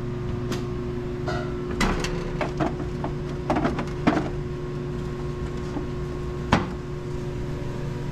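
Scattered knocks and clatters, as of objects being handled and set down on a workbench, over a steady mechanical hum.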